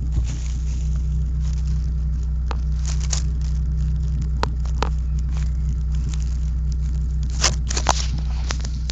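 Rover 213 SE engine idling steadily with an exhaust leak, a constant low hum. A few irregular sharp clicks sound over it, the loudest pair near the end.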